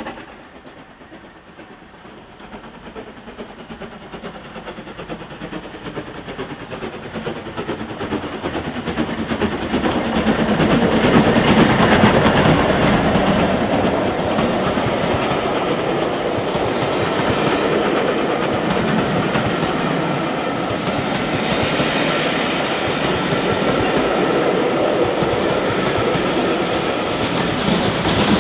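Steam-hauled train approaching and passing: the sound builds over about ten seconds, then stays loud as the train goes by.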